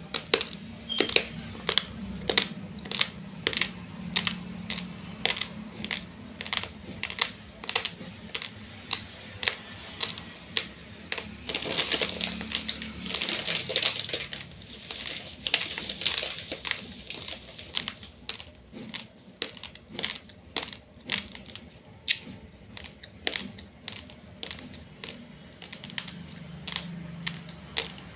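Raw long-grain basmati rice being chewed: a run of sharp, crisp crunches about two a second, thickening into a denser stretch of crunching around the middle.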